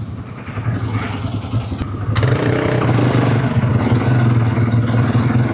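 Quad bike engine running under way, getting louder and rising in pitch as it accelerates about two seconds in.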